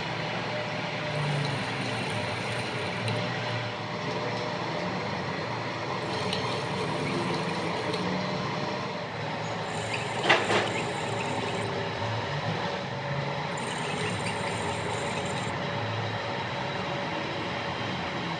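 Workshop machinery running steadily, a dense mechanical noise with a few fixed tones, with one sharp knock about ten seconds in.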